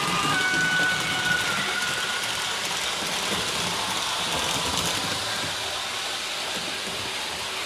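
HO-scale REE TGV model train running along the layout track: a steady rushing running noise, with a thin whine that dips slightly in pitch and fades over the first two seconds.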